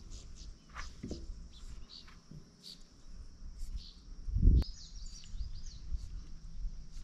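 Small birds chirping in short high calls, with a cluster of rapid chirps about halfway through, over a low steady rumble. A dull thump about four and a half seconds in is the loudest sound.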